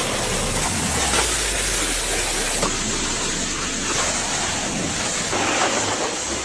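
Pressure washer spraying water, a steady hiss.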